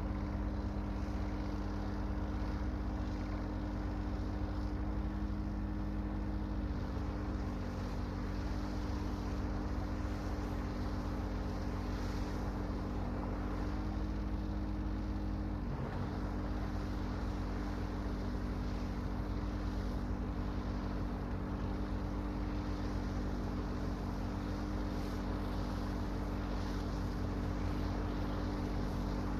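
Tractor engines running steadily, a low rumble with a few engine tones that shift slightly in pitch now and then.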